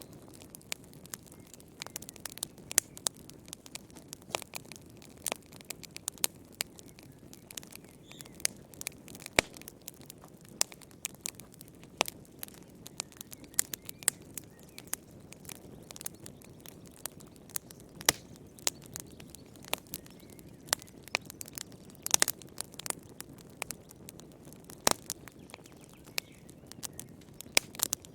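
Wood fire crackling in a fireplace: irregular sharp pops and snaps, several a second at times, over a low steady rumble of burning.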